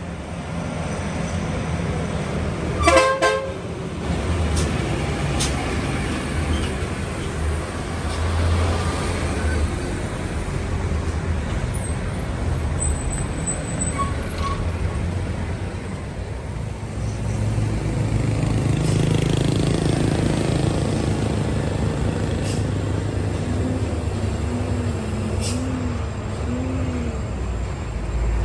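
Heavy diesel trucks running past with a steady low engine rumble. A short horn toot sounds about three seconds in, and the engine drone grows louder in the second half.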